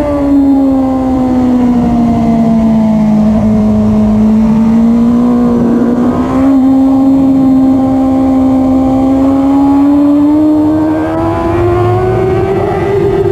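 Suzuki GSX-R1000R's inline-four engine under way on track: the revs sag slowly through a long corner, break briefly about six seconds in, then climb steadily as the throttle opens.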